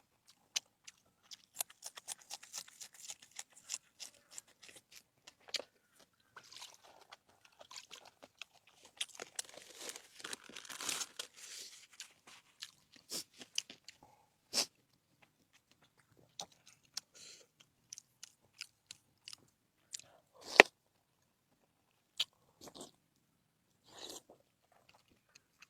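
Close-miked eating of crunchy food: crisp bites and chewing crunches, denser about ten seconds in, with one loud crack about twenty seconds in.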